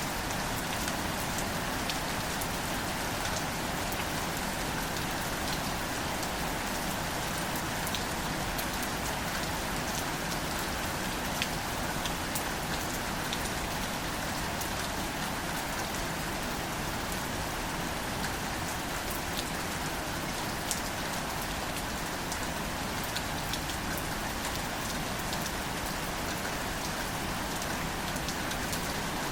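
Steady gentle rain falling on greater celandine wildflowers and their leaves: an even hiss of rain with many separate drop ticks scattered through it.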